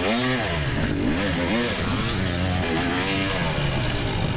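2024 GasGas EX300 two-stroke dirt bike engine under race riding, its pitch rising and falling again and again as the throttle is opened and rolled off.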